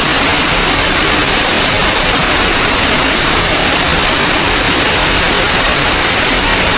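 Small waterfall: falling water making a steady, loud rush.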